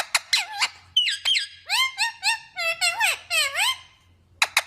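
Green parrot giving a quick run of short, squeaky chirps and squawks, each call bending up and down in pitch, with a short pause near the end.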